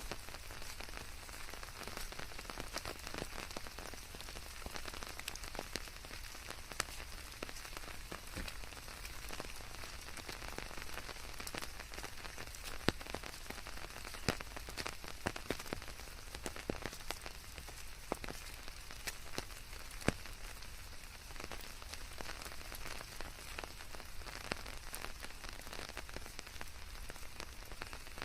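Steady rain falling, many individual drops ticking sharply over a continuous hiss, a few louder drops standing out now and then.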